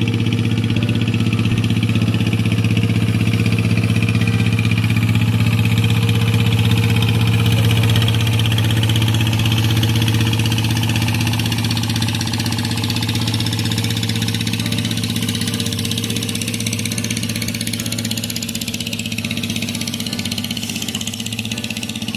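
A small fishing boat's inboard engine running steadily, growing louder to about eight seconds in and then slowly fading as the boat passes.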